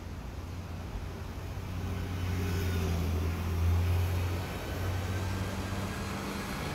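A motor vehicle's engine running on the street, growing louder to a peak a little over halfway through and then easing off.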